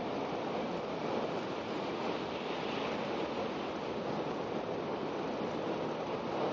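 Steady rushing running noise heard inside the cabin of an N700-series Shinkansen travelling at speed: air and wheel-on-rail noise with no breaks or clicks.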